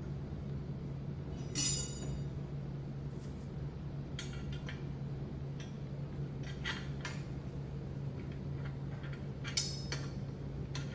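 Small metal bird-feeder parts, hooks and bolts, clinking and clicking as they are handled and fitted together: a handful of separate clinks with short ringing, the loudest a little under two seconds in. A low steady hum runs underneath.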